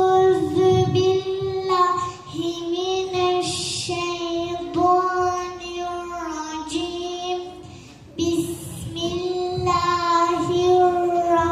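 A child's solo voice chanting a Quran recitation in Arabic, unaccompanied: a melodic line of long held, lightly ornamented notes in phrases with short breaths between them.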